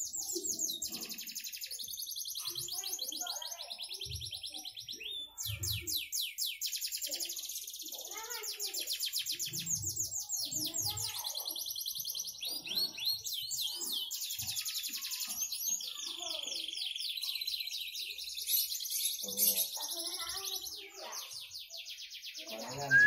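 Canary singing a long song of fast rolling trills and warbled phrases, broken by a few short pauses.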